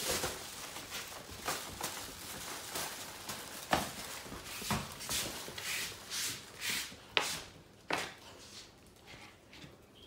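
A Great Dane puppy scuffling about, making a string of irregular knocks, taps and scrapes with short rustling bursts.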